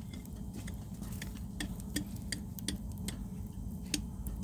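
Wood fire crackling: irregular sharp snaps, a few a second, over a low steady rumble.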